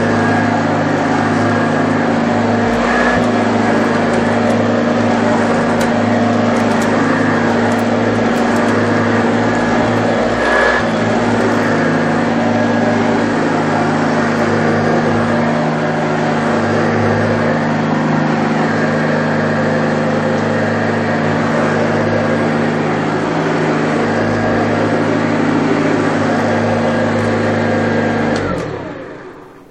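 1984 Hoover Junior U1104 upright vacuum cleaner, a 300-watt budget model with a plastic fan, running steadily as it picks up sawdust, with two brief clicks. About 28 seconds in it is switched off and the motor winds down, falling in pitch.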